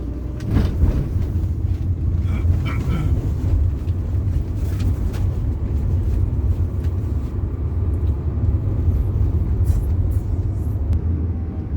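Steady low rumble of a moving road vehicle heard from on board: engine, road and wind noise.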